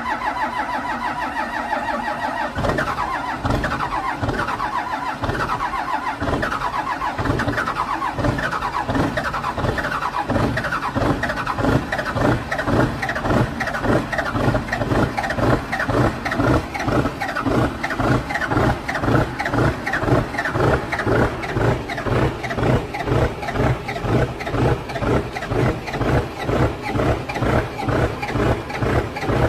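A 12-valve Cummins inline-six diesel cold start. A whining starter cranks for about two and a half seconds, then the engine catches and runs with a rough, uneven pulse that settles into a steady, lumpy beat of about two pulses a second.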